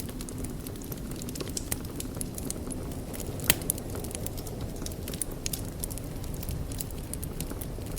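Wood fire burning in a fireplace: a steady low rumble of the flames with frequent crackles and sharp pops, the loudest pop about three and a half seconds in.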